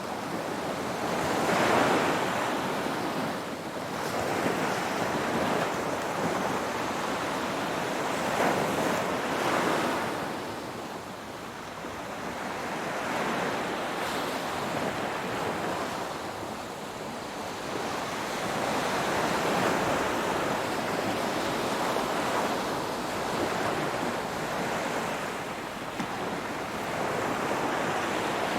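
Ocean waves breaking and washing on a shore, a continuous surf that swells and subsides every few seconds, with some wind.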